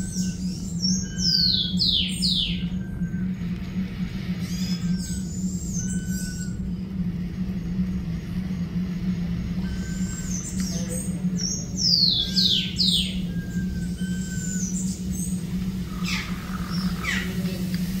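Birds calling: quick runs of three or four whistled notes sweeping steeply downward, about a second in and again around twelve seconds, among scattered short chirps. A steady low hum runs underneath.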